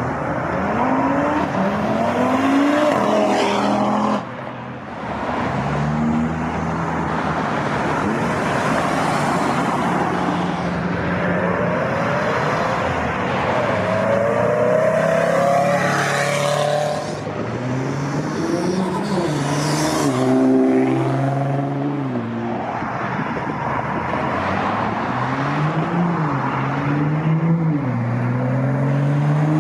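Several performance cars pulling away one after another. Their engines rev up through the gears, the pitch climbing and then dropping back at each shift, over a steady rush of exhaust and road noise.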